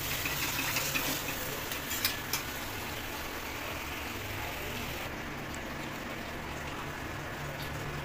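Spice masala sizzling in a kadai, with a metal spatula clicking and scraping against the pan as it is stirred. About five seconds in, the sizzling hiss drops off sharply as water goes into the pan, leaving a quieter simmer.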